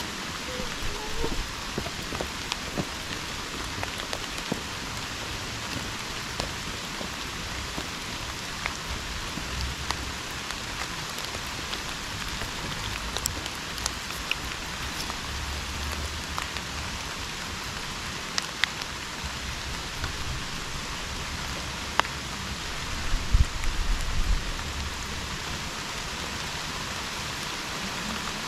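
Steady rain falling, with scattered louder drips and a few brief low rumbles, the loudest about three-quarters of the way through.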